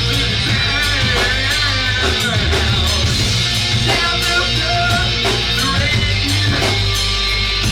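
Rock band playing live at full volume: electric guitar and bass over a steady drum beat.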